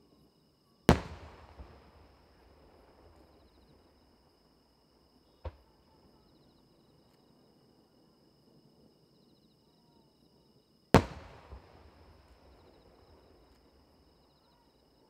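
Two large aerial firework shells bursting about ten seconds apart, each a single loud boom that trails off in a rolling echo over a second or two, with a smaller sharp bang between them. Insects trill faintly and steadily in the background.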